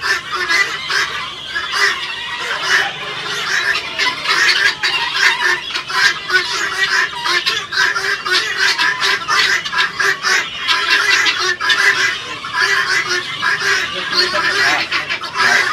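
A flock of guineafowl calling, many overlapping calls running on without a break.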